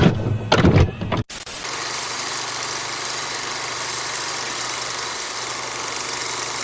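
A steady rushing noise with a faint low hum under it, starting abruptly about a second in after a moment of voice.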